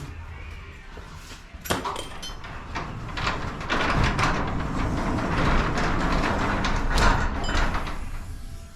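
Sectional garage door travelling along its tracks on freshly fitted rollers and springs. A sharp click comes a little under two seconds in, then a steady rolling rumble builds, holds, and fades near the end.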